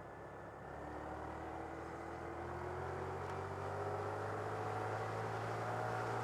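Honda Grom's 125 cc single-cylinder engine accelerating, its pitch rising steadily and getting louder over several seconds.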